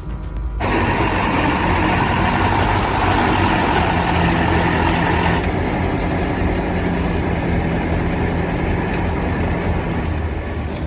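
A heavy truck engine running steadily under a loud rushing noise. The sound cuts in abruptly about half a second in and its upper part drops away suddenly about halfway through.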